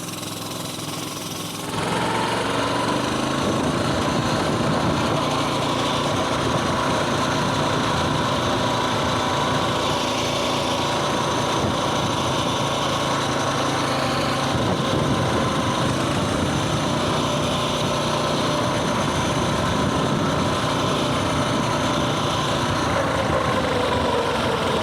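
Coleman mini bike's small single-cylinder four-stroke engine, low and quiet at first, then opening up about two seconds in and running steadily under way. It eases off near the end.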